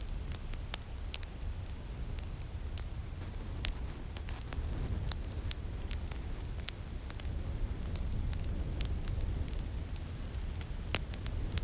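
Crackling fire with irregular sharp pops and snaps over a steady low rumble of winter wind.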